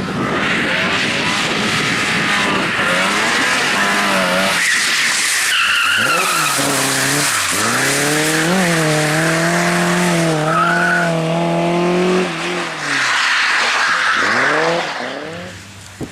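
A competition car's engine revving hard, climbing through several gear changes, then held at high revs, dropping off and picking up again near the end. Tyres squeal in short bursts about a third of the way in and again past the middle, over the hiss of sliding tyres.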